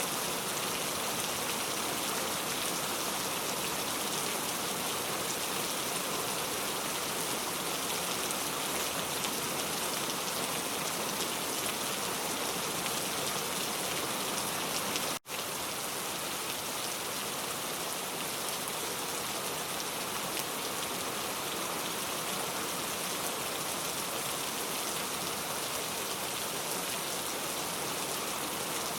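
Heavy rain falling steadily, an even hiss of drops on surfaces. It cuts out for an instant about halfway through.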